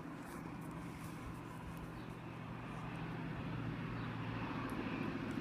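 Low, steady diesel engine hum of an approaching High Speed Train's Class 43 power car, growing slowly louder from about halfway through.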